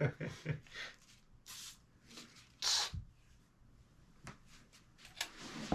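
A string of short hisses and sharp clicks, a few each, spaced out with brief pauses between them.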